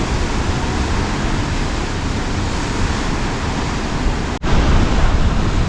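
Ocean surf and wind, with wind rumbling on the microphone. The sound drops out for an instant about four seconds in, and the wind rumble is heavier after it.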